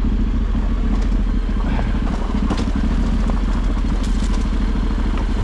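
Off-road motorcycle engine running steadily on the move, with scattered clicks and clatter over the top.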